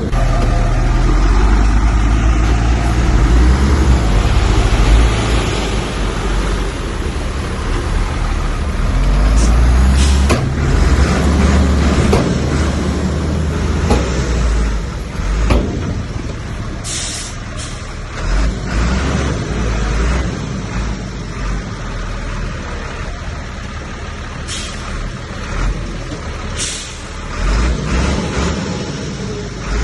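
Heavy diesel earthmoving machinery (bulldozer and dump trucks) running and working, the engine note swelling and easing. Several sharp clanks come in the middle, and a few short hisses come in the second half.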